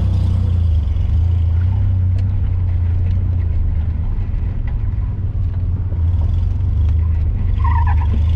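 Chevrolet S-10 Blazer's engine running steadily as the truck pulls away and drives on. It is heard from inside the open, doorless cab, with road and wind noise.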